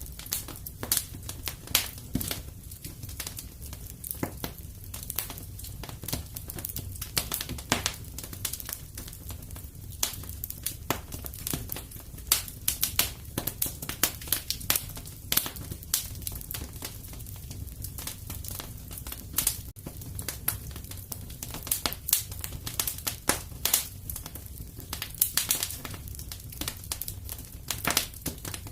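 Wood fire burning in a fireplace: irregular crackles and pops over a low, steady rumble of flame.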